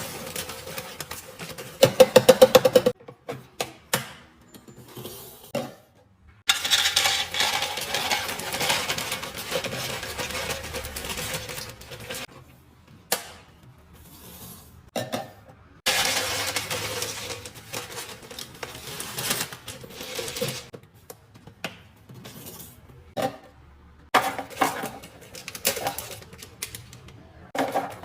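Containers and packaging being handled while a fridge is restocked: clinks and knocks of glass and plastic set down, with longer stretches of rustling packaging and a quick run of rattling clicks about two seconds in.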